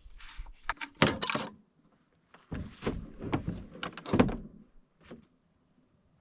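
Handling noise from a cordless grease gun being taken apart: an irregular run of clicks, scrapes and knocks from its parts, loudest about a second in and again from two and a half to four and a half seconds, with one last knock near five seconds.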